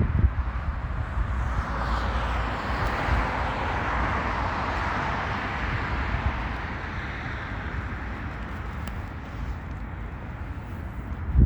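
Street traffic: a passing vehicle's tyre and engine noise swells to a peak about four seconds in and then fades into a low rumble.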